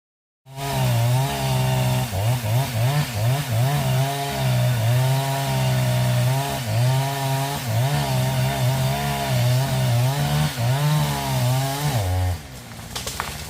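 Chainsaw cutting wood, its engine note repeatedly dipping as the chain bites and climbing back. It starts abruptly about half a second in and drops away near the end, leaving quieter clicks.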